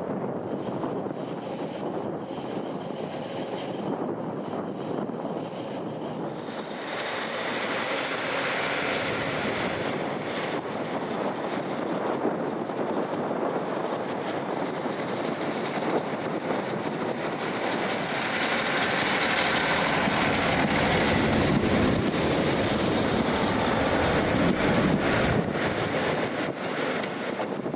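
Train running with a steady rumbling noise. About seven seconds in, a high-pitched whine rises and then holds steady, and the noise grows a little louder in the second half.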